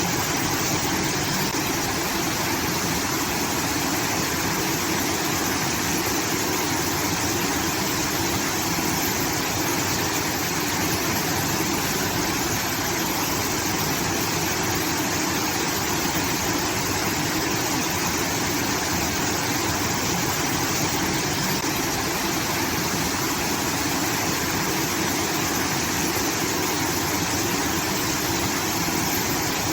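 Irrigation water in a rice field pouring and rushing steadily like a small waterfall, an even, unbroken roar.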